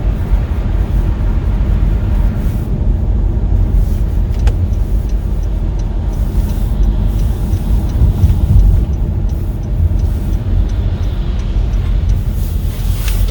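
Car driving, heard from inside the cabin: a steady low rumble of engine and road noise, with a faint regular ticking from about the middle on.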